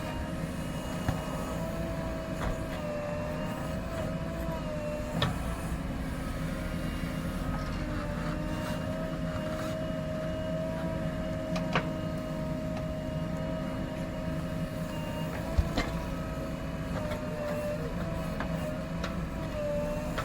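JCB 3DX backhoe loader's diesel engine running steadily, with a whine that wavers slightly in pitch. A few sharp knocks are heard at intervals.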